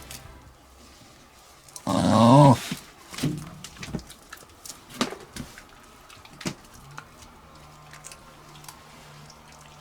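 Shiba Inu giving one short whining call, about two seconds in, that rises and falls in pitch. A few scattered clicks and taps follow, and a faint steady low hum sets in near the end.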